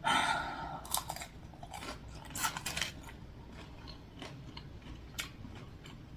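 A person biting into and chewing fast food close to the microphone. A noisy bite comes right at the start, then a run of wet, crunchy chewing clicks that are busiest in the first three seconds and thin out after.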